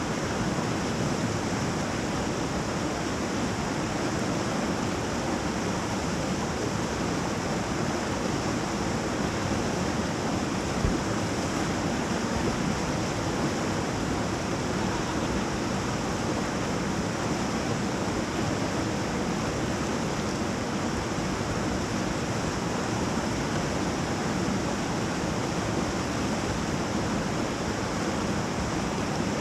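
Whitewater rapids rushing in a steady, unbroken wash of water noise, with one brief louder knock about eleven seconds in.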